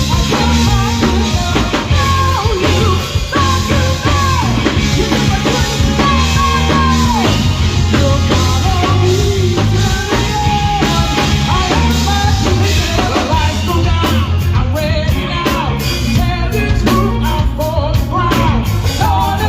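Rock band playing live: a driving drum kit and a steady bass line under singing, in a punk-rock style.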